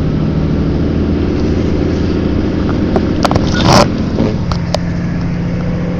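Tow truck engine running steadily. About three and a half seconds in come a few sharp clicks and a short loud hiss, and just after that the engine note shifts.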